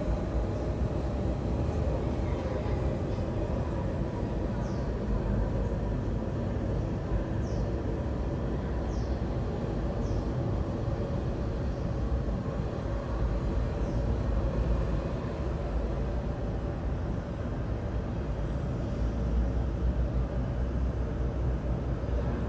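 Airbus A320neo jet engines running steadily: a constant low rumble with a steady hum in it, no rise or fall in level.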